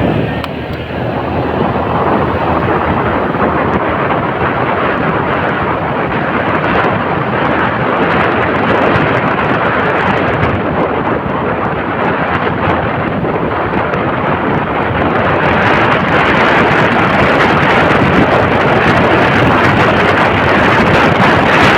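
Wind rushing over the microphone and road noise while riding a motorcycle: a steady, loud rush that grows a little louder about two-thirds of the way in.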